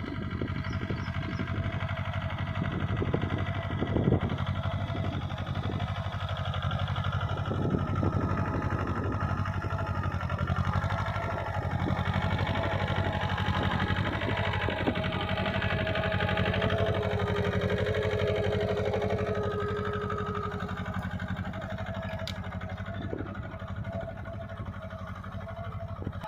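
Mahindra Jivo compact tractor's diesel engine running steadily.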